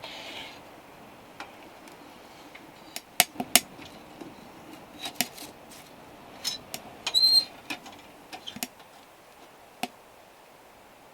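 Scattered sharp clicks and knocks of small hard objects being handled, with a short high ringing clink about seven seconds in.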